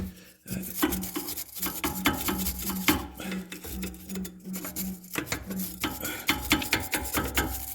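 A brush scrubbing rapidly back and forth on rusty metal at the car's front axle, scraping the rust loose.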